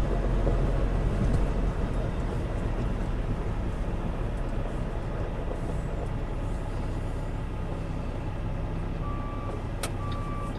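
Semi truck's diesel engine running steadily at low revs. Near the end its reversing alarm starts beeping as the truck is put in reverse to back in, with a brief sharp sound just before the second beep.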